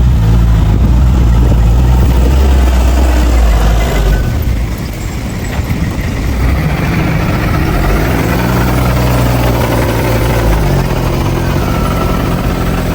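Heavy diesel engine of earthmoving machinery running loudly. It eases off about four seconds in and picks up again about two seconds later.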